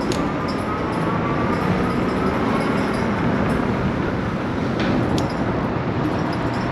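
Kreboc ES750 e-bike being ridden: a steady rush of wind and tyre noise, with a few light clicks.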